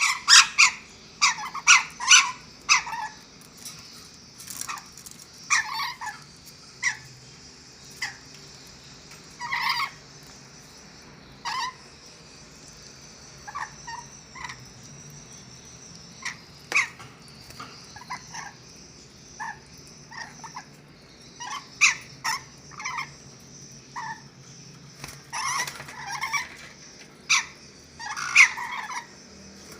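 A group of captive lories giving short, harsh screeching calls, singly and in quick clusters at irregular intervals, with the loudest bunches near the start and again near the end.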